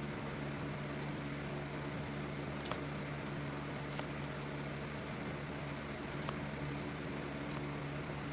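Electric fan running with a steady low hum, with a few faint clicks spread through it.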